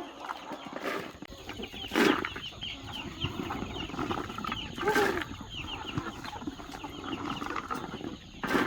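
A flock of chickens clucking and chirping as they feed, with many short high calls throughout and three louder sudden sounds about two, five and eight and a half seconds in.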